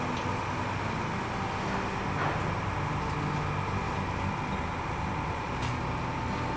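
Small passenger ferry's engine running steadily, a low hum with a faint thin whine above it.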